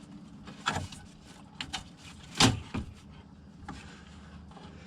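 Knocks and clicks of a radiator and A/C condenser being worked into place in the car's front end, with one loud knock about two and a half seconds in, over a steady low hum.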